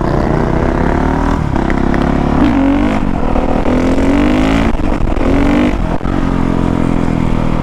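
Honda CRF450R's single-cylinder four-stroke engine revving, its pitch rising and falling several times as the throttle is worked.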